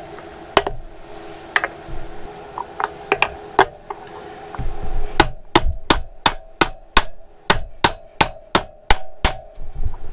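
Sharp metallic clicks from a hand tool working the sprocket nuts on a motorcycle's rear hub. A few scattered clicks come first, then from about halfway a regular run of about three a second with a slight ring. A low steady hum runs underneath.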